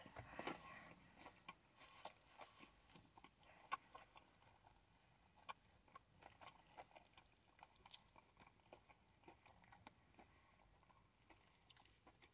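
Faint, close-up chewing of a sauce-dipped, breaded KFC chicken tender: scattered soft crunches of the breading and small wet mouth clicks, a little louder in the first second.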